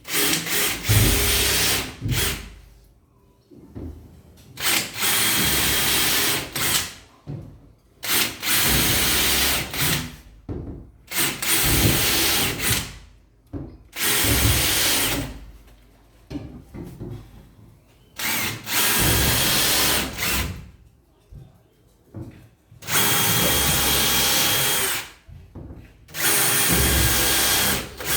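Cordless drill/driver run in about eight short bursts of one and a half to two seconds each, with short pauses between: screws being driven one after another, as when fixing a cabinet's back panel.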